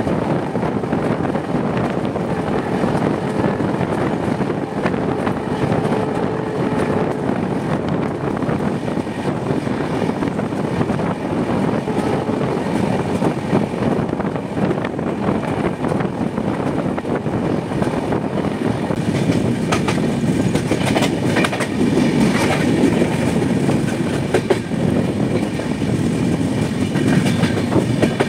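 Passenger train running at about 90 km/h, heard from on board: a steady rumble of wheels on rail with rhythmic clickety-clack over the rail joints. The clacks grow sharper and more frequent near the end as the train runs into a station's pointwork.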